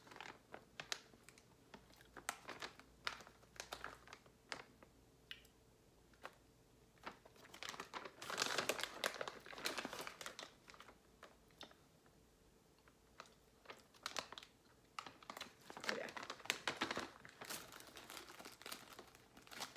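Eating up close: crunching of buttery crackers and crinkling of a plastic bag of shredded cheese, in irregular crackles with denser bursts about eight seconds in and again around sixteen seconds.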